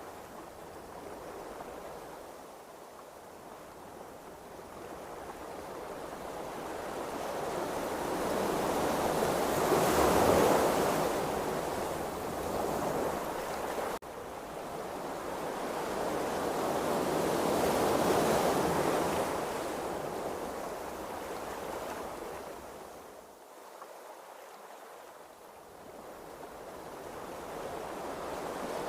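Ocean waves washing and rushing, swelling and fading in slow surges, with two louder swells about a third and two-thirds of the way in.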